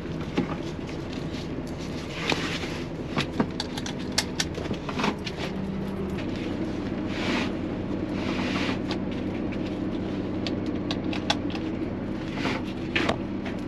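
Steady low hum of the parked semi truck, with scattered clicks and rustles as a seatbelt is pulled and strapped across the cab doors to keep them from being opened.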